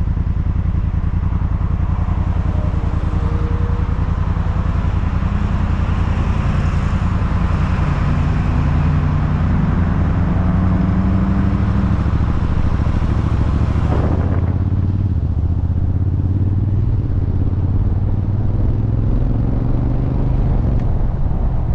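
Honda Africa Twin's parallel-twin engine idling at a standstill, then revving up and pulling away about two-thirds of the way through.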